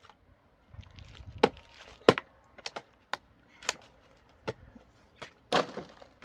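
A series of irregular knocks and clacks, about six of them, uneven in spacing, with the loudest about two seconds in.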